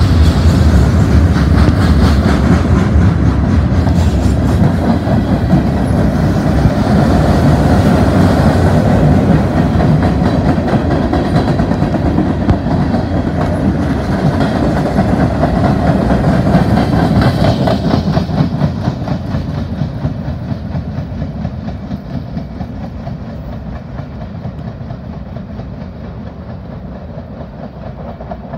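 A freight train's boxcars and gondolas rolling past at close range, with a heavy rumble and the wheels clacking over rail joints. About two-thirds of the way through, the sound begins fading steadily as the end of the train passes and moves away.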